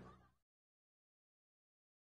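Near silence: the last trace of a fade-out dies away in the first half second, then complete digital silence.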